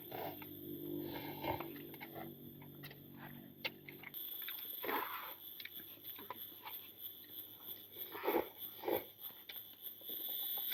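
People eating: chewing, with spoons and forks clicking and scraping on plates in short scattered knocks. A low steady drone sits under the first four seconds and stops abruptly.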